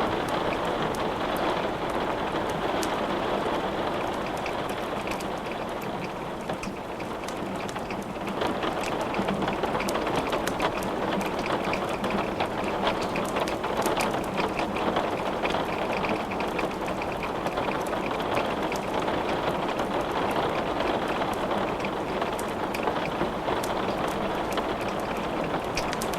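Steady heavy rain mixed with the crackle of wood burning in a fireplace, many sharp little clicks over the even hiss of the rain.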